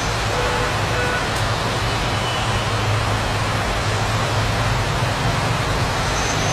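Steady, loud hiss of heavy rain, with a low droning hum underneath.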